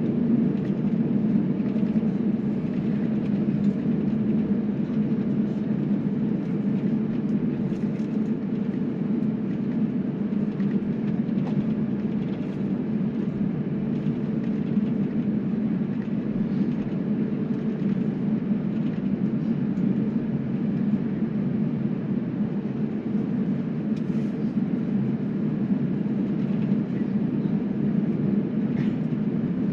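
Steady rumble in the cabin of a jet airliner as it taxis, with the engines at idle and the wheels rolling. A few faint knocks come now and then.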